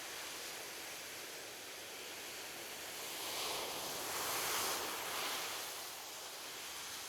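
Ocean waves washing on a beach: a steady hiss of surf with one wave swelling louder in the middle and fading away.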